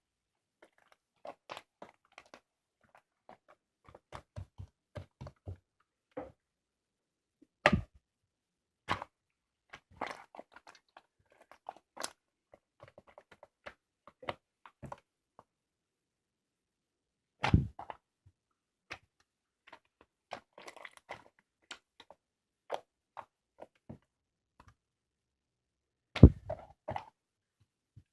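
Hands squeezing and poking homemade slime (액괴), giving scattered sticky clicks, crackles and squelching pops with short silences between. A few pops are louder, about eight, seventeen and twenty-six seconds in.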